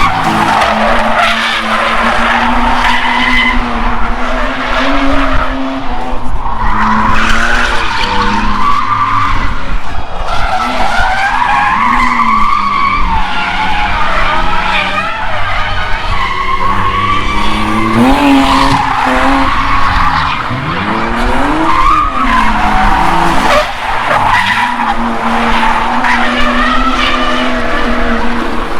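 Nissan 350Z drifting: its 3.5-litre V6 engine held high in the revs, with the pitch swinging up and down as the throttle is worked, over continuous tyre squeal from the spinning rear tyres.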